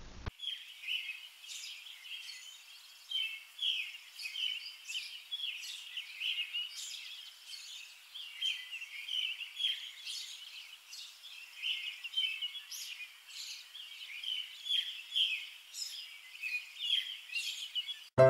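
A chorus of small birds chirping, many short, quick calls overlapping one another without a break, cutting in abruptly just after the start.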